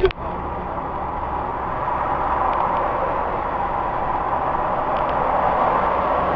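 Steady noise of a car driving on the road, the tyre and engine sound creeping slightly louder over a few seconds.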